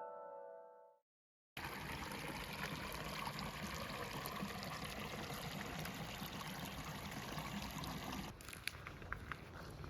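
Piano music fading out in the first second, then a small stream trickling and running steadily. About eight seconds in it changes to a quieter background with a few small clicks.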